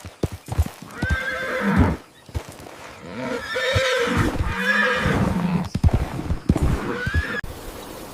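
Horse whinnying several times, the longest call in the middle, with hoof clip-clops at the start. It cuts off shortly before the end.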